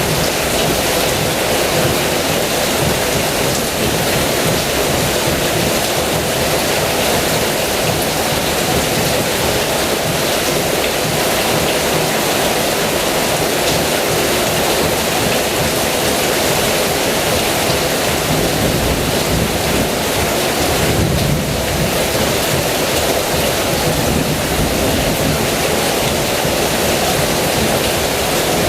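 Heavy rain pouring steadily, with a low rumble of thunder swelling about two-thirds of the way through.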